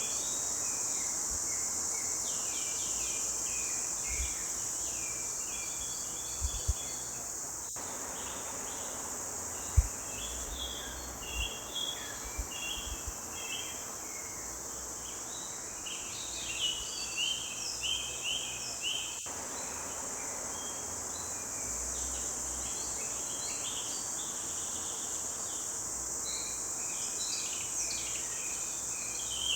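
Forest bird chorus: several songbirds chirping and singing in short phrases over a steady high-pitched insect drone, with a few low thumps, the loudest about ten seconds in.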